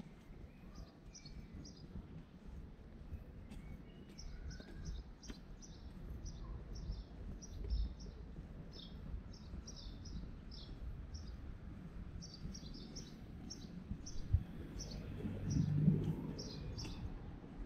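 Small birds chirping over and over, short high chirps coming several a second, over a steady low street rumble. Near the end there is a single knock, then a low hum that swells briefly and fades.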